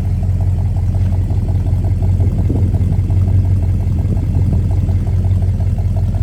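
1969 Dodge Coronet R/T's 440 Magnum V8 idling steadily, its exhaust giving an even, regular pulse.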